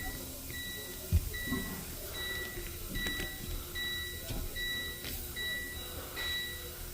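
An electronic beeper sounding short, high beeps that repeat evenly about every 0.8 seconds, with a single knock about a second in.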